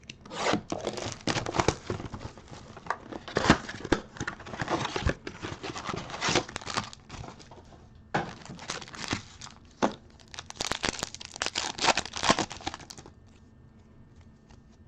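Plastic wrapping on sports trading card packaging being torn open and crinkled by hand, in irregular bursts, dying down near the end.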